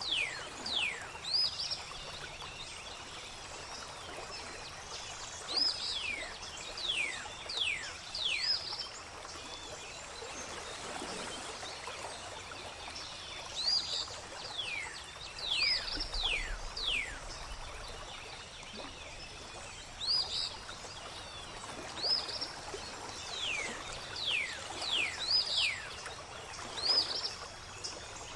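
Songbirds calling over steadily flowing water: repeated quick whistles that slide downward in pitch, mixed with short rising chirps, in clusters with a lull near the middle.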